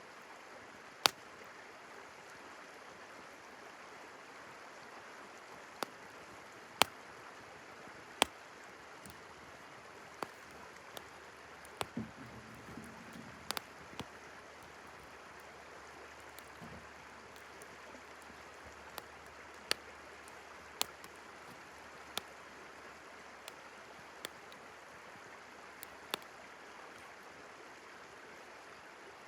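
Wood fire crackling with sharp, irregular pops over the steady rush of a flowing river.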